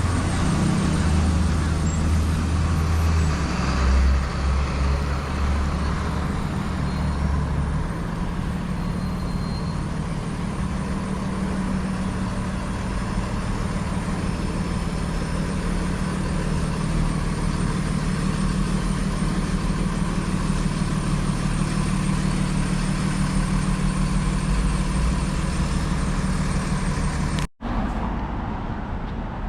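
Street traffic with the steady low rumble of a large vehicle's engine. The sound drops out for an instant near the end, then carries on quieter.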